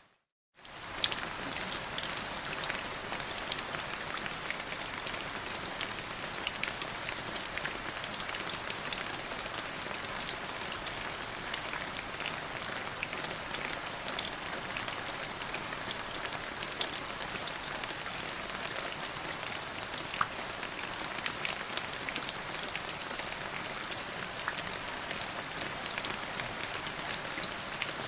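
Steady rain falling on a surface, a dense hiss scattered with many sharp individual drop ticks. The sound cuts out to silence for about half a second right at the start, then resumes.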